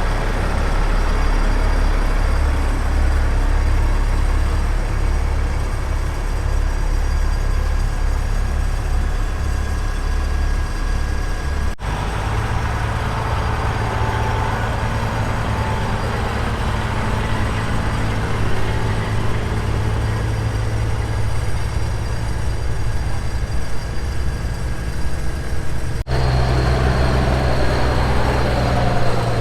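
Large truck engines running steadily with a deep low hum, in three spliced stretches; the engine note changes abruptly at each cut.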